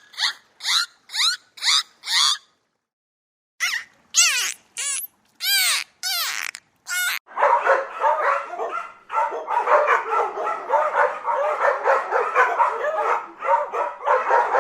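A dog yipping rapidly, about three short falling calls a second. After a brief pause come a few separate sweeping animal calls, then from about halfway on a dense run of many overlapping calls.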